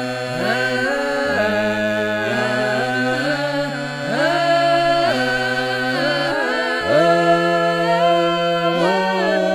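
Russian folk multi-voice a cappella singing: several voices hold long, drawn-out notes together in harmony, sliding up into each new note.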